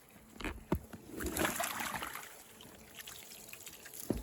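Half-frozen slushy water sloshing in the goats' water container, with a few knocks near the start.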